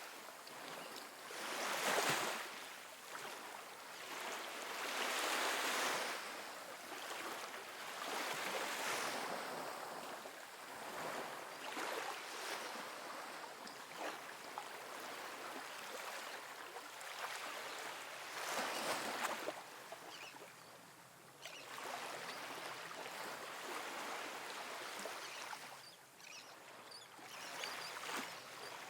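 Small ocean waves breaking and washing up a sandy beach, a hiss that swells and falls every few seconds, with the loudest breaks about 2, 5 and 19 seconds in.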